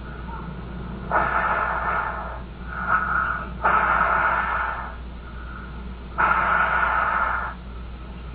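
Breathing played from an answering-machine recording: three loud breaths of a second or more each, with softer breaths between them, over a steady low hum.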